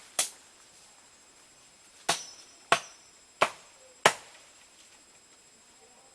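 Five sharp cracks, the first at the start and four more close together in the middle, each dying away quickly, with a faint steady high whine behind them.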